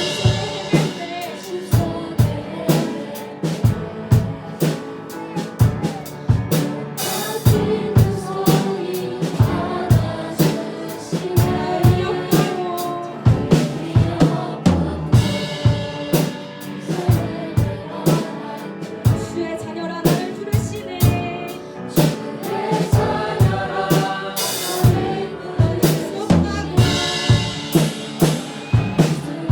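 Live worship band playing a praise song: singers over piano, with a drum kit keeping a steady beat.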